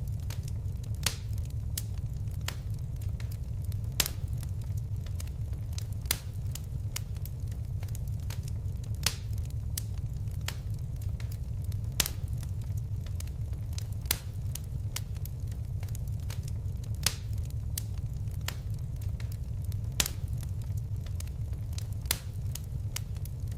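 Wood fire crackling: sharp pops every second or two, a few louder than the rest, over a steady low rumble of burning.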